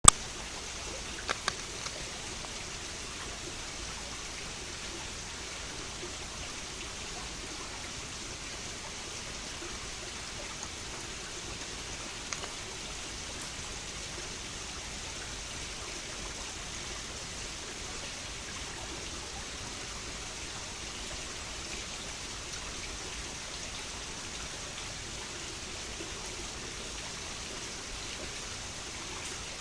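Mountain headwater stream babbling steadily over rocks, with a few short sharp clicks: a couple about a second and a half in and one around twelve seconds in.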